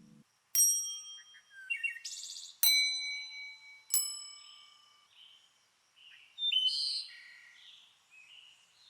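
Three bright metallic dings, like a struck chime or bell, each ringing out: the first about half a second in, then near three seconds and at four seconds. Short chirping sound effects play between and after them.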